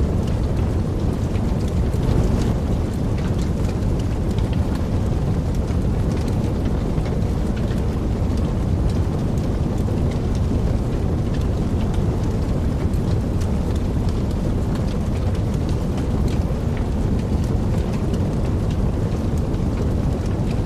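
Wood fire burning in a fireplace: a steady low rumble of flame with many small, irregular crackles and pops.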